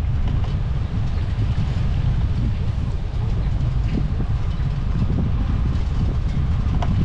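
Wind buffeting the microphone while cycling, a steady low rumble, with a few faint clicks from the moving bicycle.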